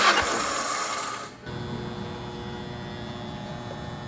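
Nissan SR20DET four-cylinder turbo engine turned over by its starter motor during a compression test, cranking without firing. The cranking stops about a second and a half in, leaving a low steady hum.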